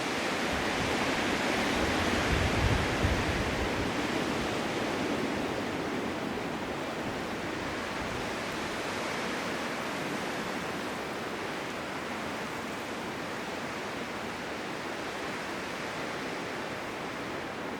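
Blizzard wind: a steady rushing noise that swells in a gust over the first few seconds, with a brief low rumble, then eases back to a constant rush.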